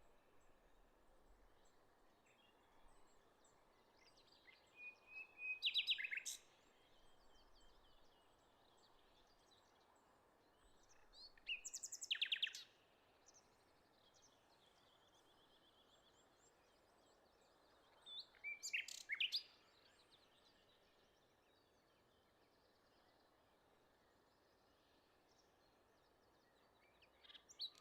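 A songbird singing the same short song over and over, four times, about every six or seven seconds. Each song lasts about a second and a half: a few quick high notes running into a rapid trill. A faint steady hiss lies underneath.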